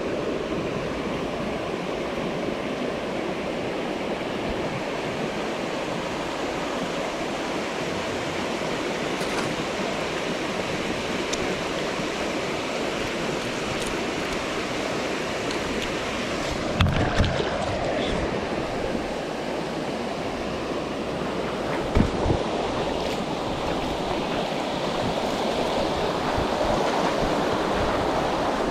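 Steady rush of flowing stream water, with a few short knocks a little past halfway through.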